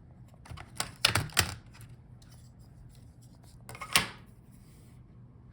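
Sharp clicks and taps of small hard laptop parts being handled and set down: a quick cluster about a second in and one louder click about four seconds in.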